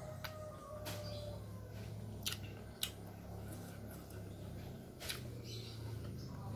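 A person chewing food with the mouth closed, with several short sharp mouth clicks and smacks scattered through, over a low steady hum.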